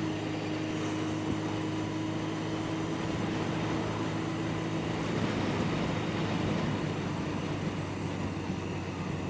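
Yamaha 750 Seca's air-cooled inline-four engine running at a steady pitch, with a rush of noise over it.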